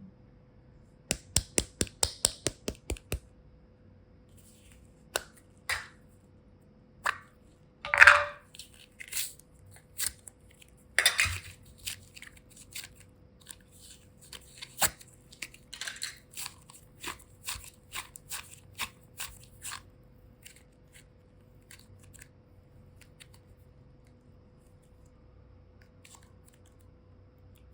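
Close-up handling of slime and plastic boxes: a fast run of about ten sharp clicks, then scattered clicks and crackles with two louder crunchy rasps about eight and eleven seconds in, thinning out after about twenty seconds.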